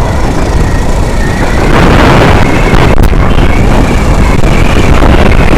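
Loud wind buffeting on a helmet-mounted action camera's microphone while riding a Hero Glamour motorcycle, mixed with road and engine noise. It gets louder about a second and a half in.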